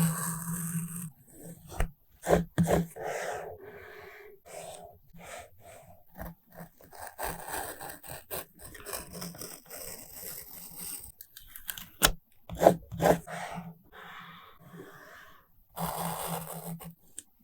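Close-up paper crafting sounds from journal collage: irregular rustling, tearing and scraping of paper, stickers and tape, with sharp taps now and then, the loudest about twelve and thirteen seconds in.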